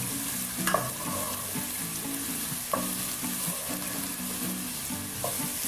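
Chopped onion sizzling in olive oil in a pan as it is stirred and sautéed, with a few clicks of the stirring utensil against the pan.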